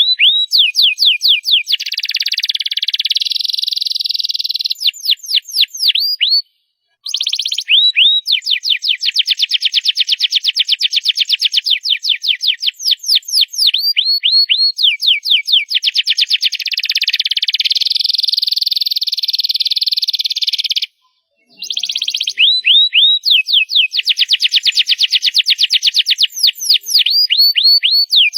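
Domestic canary singing loudly: a long song of very fast trills and rolls, with runs of repeated swooping notes. It breaks off twice, for about half a second each time.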